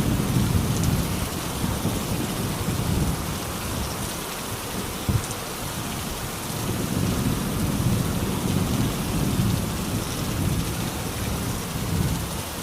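Steady rain falling, an even hiss, over a low rumble that eases a few seconds in and builds again.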